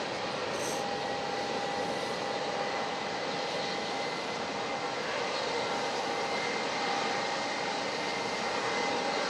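Jet airliner engines running steadily: an even rush of noise with a thin, steady whine held through it, growing a little louder near the end.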